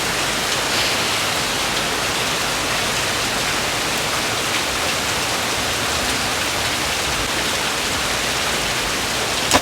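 Steady rain from a thunderstorm falling hard, a dense, even hiss with no break.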